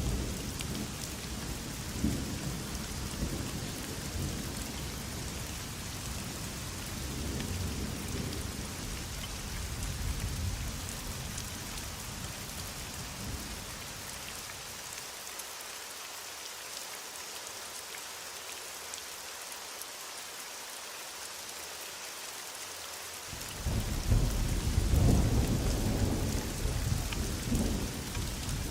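Heavy rain falling in a steady hiss, with rolling thunder rumbling underneath. The thunder dies away for several seconds past the middle, then a louder rumble of thunder breaks in near the end.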